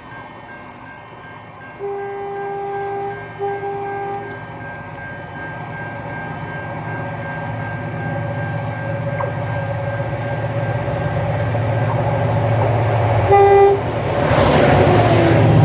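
A train approaching and passing close, sounding its horn: a long blast and a shorter one a couple of seconds in, then a brief blast near the end as the rumble swells into the loud rush of the train going by.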